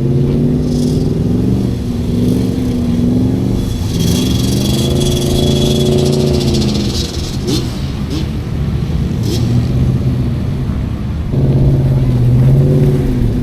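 Motor vehicle engine running close by, its pitch rising and falling slowly as it is revved and eased off.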